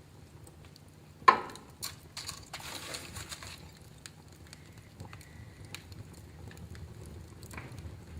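Wood fire in a fireplace crackling over a low steady rumble, with one loud sharp pop about a second in, followed by a short dense run of hissing crackles and scattered small snaps.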